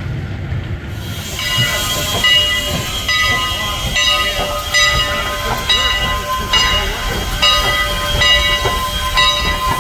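Bell on the Cagney, a small steam locomotive, ringing steadily about once a second, with steam hissing. The ringing starts about a second in.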